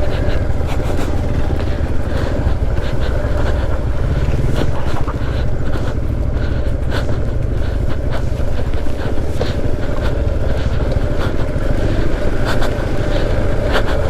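Motorcycle riding over loose small pebbles: a steady engine rumble with many scattered clicks and knocks from the stones under the tyres.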